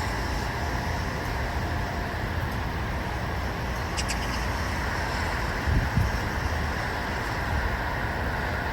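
Steady outdoor ambience: a constant hum of distant road traffic. Wind buffets the microphone in low thumps near the end, and a brief high click comes about four seconds in.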